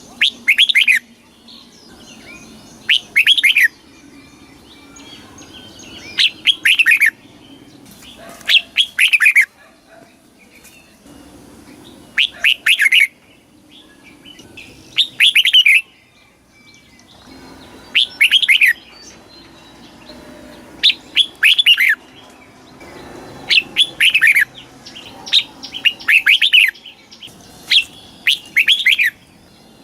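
Red-whiskered bulbul singing: short, loud phrases of quick falling whistled notes, repeated every two to three seconds.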